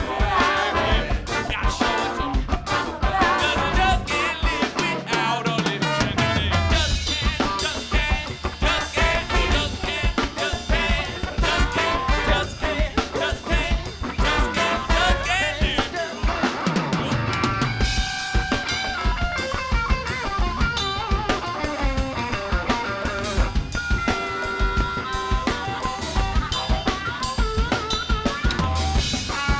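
Funk band playing an instrumental passage, driven by a busy drum kit with snare and rimshot hits. A low note slides down in pitch twice, about four seconds in and again past the middle.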